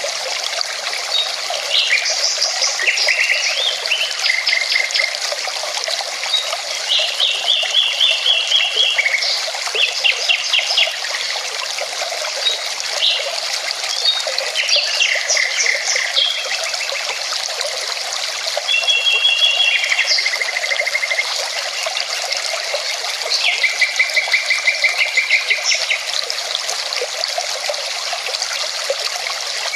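Mountain river running steadily, with songbirds singing over it in short phrases of rapid repeated notes, several times.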